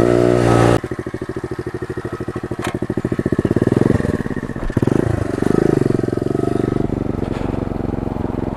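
Pit bike engine revving high, then dropping suddenly to a low putter with separately heard firing pulses about a second in, before revving up again and rising and falling with the throttle as the bike rides off.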